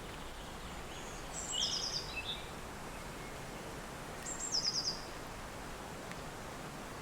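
Steady wind blowing, with a songbird singing two short high phrases, about a second in and again past four seconds, each a high note followed by a quick trill of about five notes.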